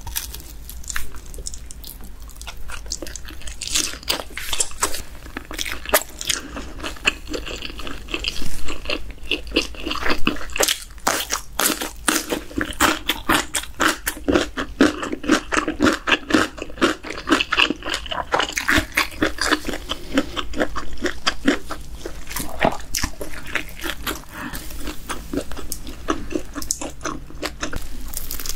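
Close-miked eating sounds: biting and chewing a cheese-powdered sausage-and-rice-cake skewer, then a bite into a crispy cheese-powdered fried chicken drumstick near the end, with dense crunching and chewing throughout.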